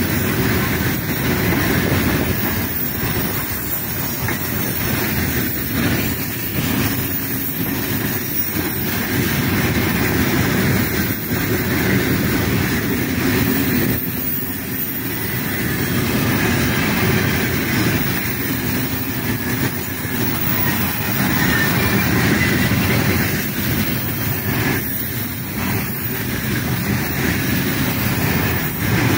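Freight wagons of a mixed goods train rolling past at speed: a steady rumble of steel wheels on the rails, with occasional knocks from the wheels and couplings.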